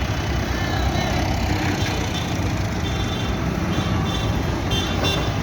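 Tractor engines running steadily as a convoy of tractors drives past.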